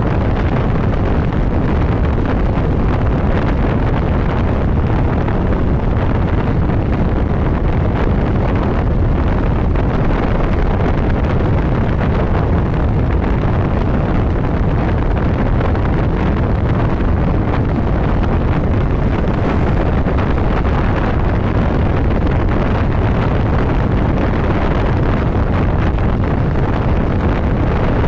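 Steady loud wind rush on the microphone of a motorcycle cruising at road speed, with the engine and road noise running beneath it.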